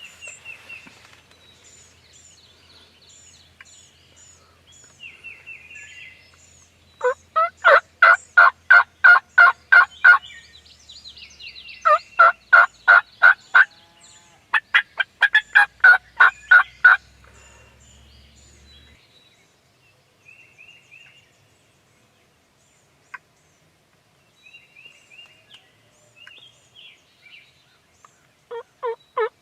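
Loud bird calls in three runs of evenly spaced notes, about four a second, each run lasting about three seconds, with a fourth run starting near the end. Faint high chirps from small birds come before and between the runs.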